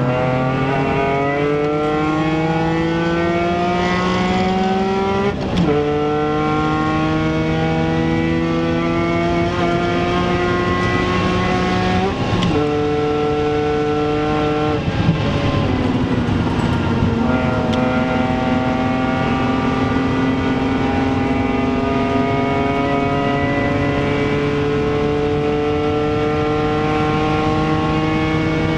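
BMW Z4 M Coupé's S54 straight-six under hard acceleration, heard from inside the cabin. The engine note climbs in each gear and drops back at upshifts about five and a half seconds in and again around twelve and sixteen seconds, then rises only slowly at high speed.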